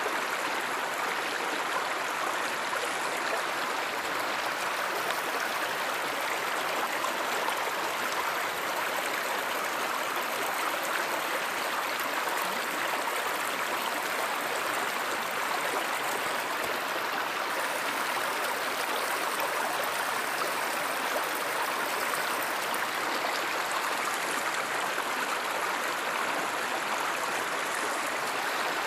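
A stream of water flowing and rushing steadily, an even, unbroken wash of water noise.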